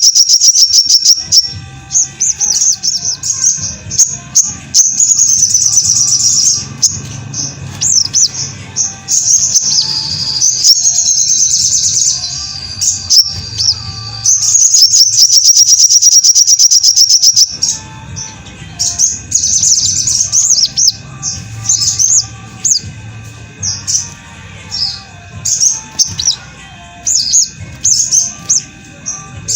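Little spiderhunter (sogok ontong) song on a masteran recording: high, fast chirps and trills, broken by a long rapid even trill at the start and another lasting about three and a half seconds past the middle.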